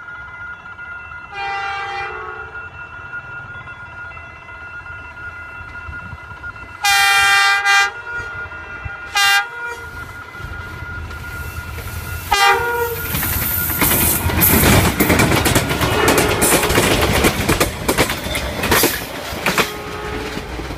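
Train horn sounding several times: a short blast, a long loud blast about seven seconds in, then two short toots, followed by the train passing with a heavy rumble and clickety-clack of wheels from about thirteen seconds on.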